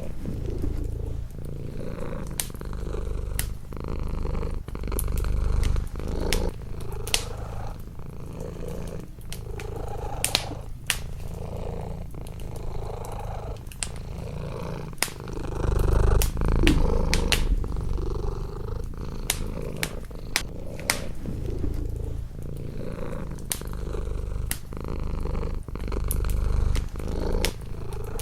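A domestic cat purring continuously, the purr swelling and easing in slow cycles, with the sharp pops and crackles of a wood fire in a fireplace scattered throughout.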